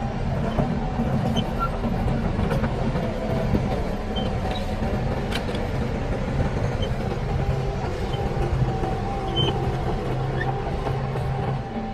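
Diesel engine of heavy earthmoving machinery running steadily under load, with a few sharp metallic clicks.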